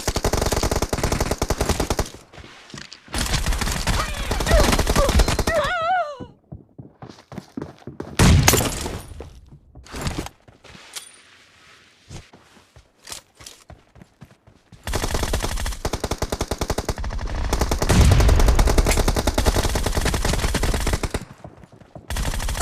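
Video game automatic gunfire in rapid bursts, broken by a quieter lull in the middle and then a long sustained burst near the end.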